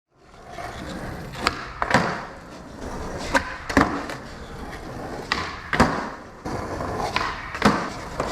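Wheels rolling over pavement, with a pair of sharp clacks about every two seconds as they cross joints in the surface.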